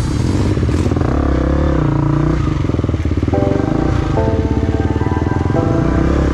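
Off-road trail motorcycle engine running and revving, its pitch rising and falling, with music underneath.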